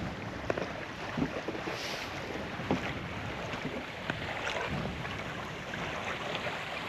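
Water rushing along the hull of a sailboat under sail, with wind buffeting the microphone and a few faint small knocks.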